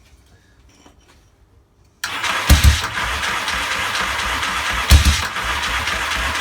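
Yamaha XS650 650cc parallel-twin being cranked on its electric starter without starting. The cranking cuts in abruptly about two seconds in and runs steadily, with a few heavy low thumps as the engine tries to fire.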